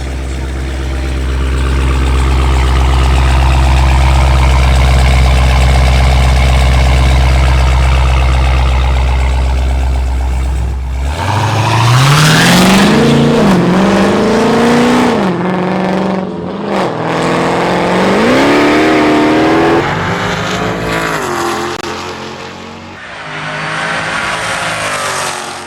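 Street car held at a steady cruise with a low drone, then at full throttle from about 11 seconds in. The engine pitch climbs sharply and falls back at each of several quick upshifts in a roll race pull, then eases off near the end.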